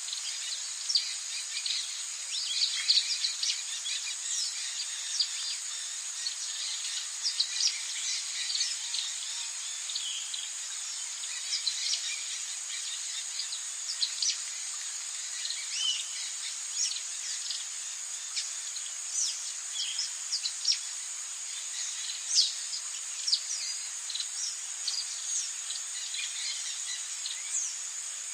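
Rainforest ambience: a steady high insect drone with many short bird chirps and whistles scattered throughout.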